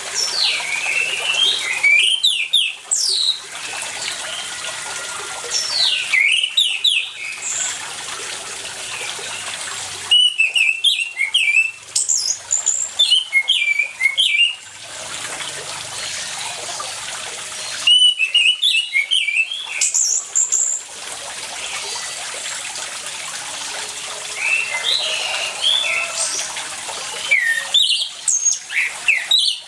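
Orange-headed thrush singing, several loud bouts of quick, varied whistled and chattering phrases a few seconds apart, over a steady sound of running water.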